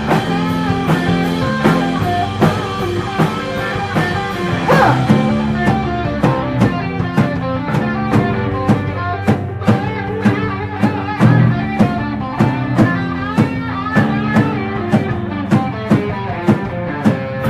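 Live rock band playing an instrumental passage with no vocals: electric guitar over a drum kit keeping a steady beat of about two hits a second, with cymbals washing over the first few seconds.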